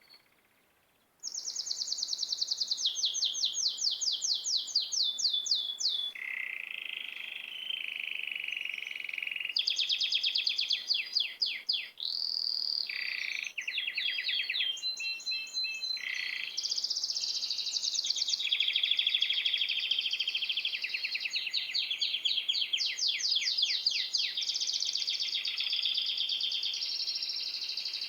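Small songbirds chirping and singing, with rapid trills and runs of quick high notes overlapping one another; the song starts abruptly about a second in.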